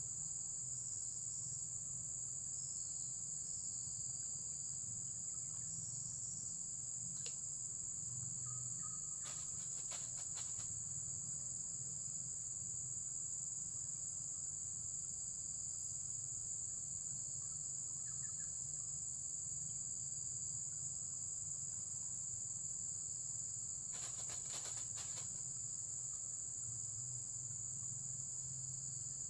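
Steady, high-pitched chorus of insects such as crickets, with a low steady rumble beneath. Two short runs of clicks break in, about ten seconds in and again a few seconds from the end.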